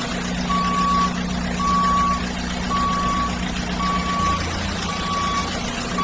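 Toy JCB digger's electronic sound effect: a reversing alarm giving a steady high beep about once a second, five times, over a low engine hum.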